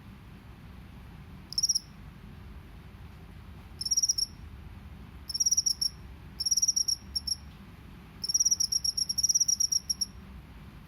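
Rice-field cricket (jangkrik sawah) chirping in five bursts of rapid, high-pitched pulses, short at first and lengthening into a trill of about two seconds near the end.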